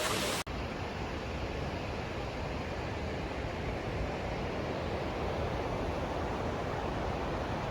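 A steady rushing noise with no distinct events, starting after a brief dropout about half a second in.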